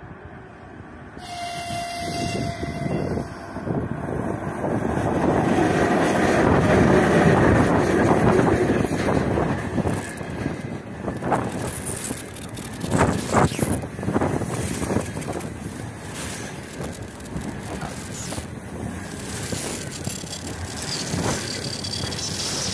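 A 3ES5K 'Ermak' electric locomotive gives a horn blast of about two seconds, a second in, as a greeting, then comes up and passes at speed. The container train's wagons follow in a continuous rumble with sharp clacks from the wheels over the rail joints.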